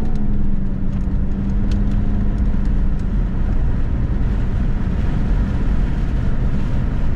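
Car being driven: steady engine and road rumble heard from inside the cabin, with a steady hum that fades out about three seconds in.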